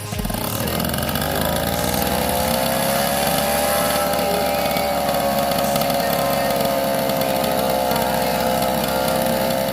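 Small RC model engine on a homemade mini tractor running fast through a Vespa exhaust. Its pitch rises over the first second or two, then holds steady.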